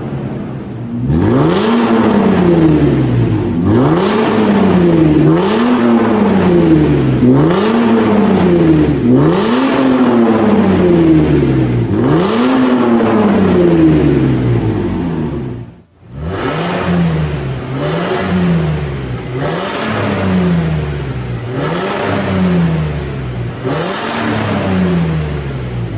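Toyota 1GR-FE 4.0-litre V6 revved through an MS-R valved aftermarket exhaust. It is blipped repeatedly, about once every two seconds: the pitch rises quickly, then falls back. There is a brief break about sixteen seconds in, and the revs peak lower after it.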